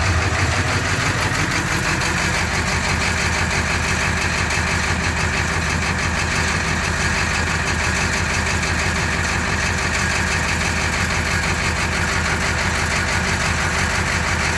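Ford F-250's 7.3-litre IDI V8 diesel idling steadily with diesel clatter. The engine is still cold after a start at 10 °F without its block heater plugged in.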